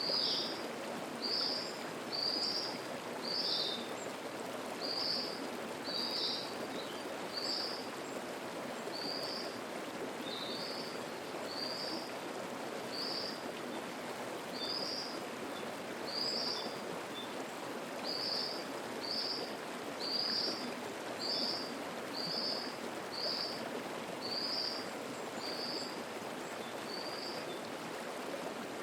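Mountain stream water rushing steadily over rocks, with a bird repeating a short, high call note about once a second throughout.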